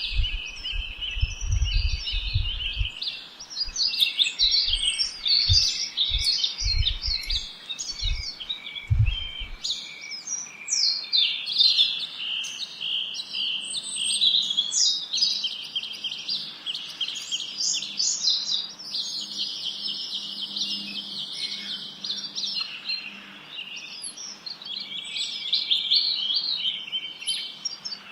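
A dense chorus of many small birds chirping and singing at once, quick overlapping chirps and trills without a break. Low rumbling thumps sound during the first ten seconds.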